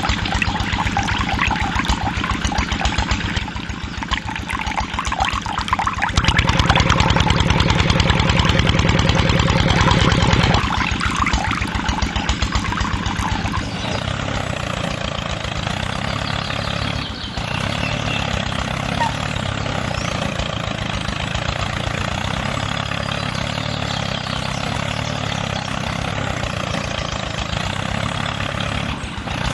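A small engine running with a fast, even pulsing beat. It grows louder for about four seconds near the start, then settles into a different, steadier note partway through.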